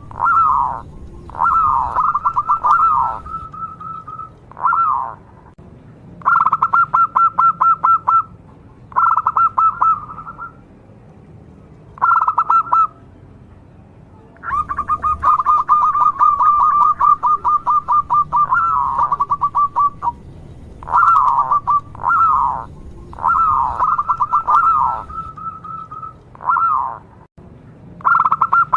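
Local zebra dove (perkutut) cooing song in full voice, the kind of singing known as gacor: repeated phrases of fast, rattling staccato coos. Each phrase lasts one to a few seconds, separated by short pauses, with one long run of about six seconds in the middle.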